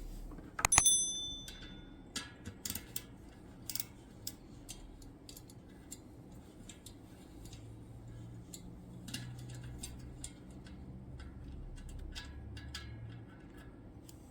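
Metal tools and parts clicking and clinking irregularly on a workbench, with one bright ringing clink about a second in. A low hum joins in the second half.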